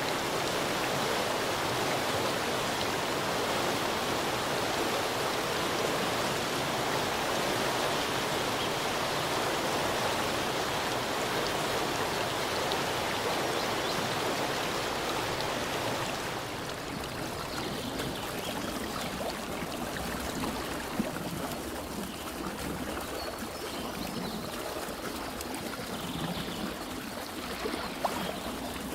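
Forest stream of clear water running over rocks in a steady rush. A little over halfway through it drops to a quieter, gentler flow, with a couple of small clicks near the end.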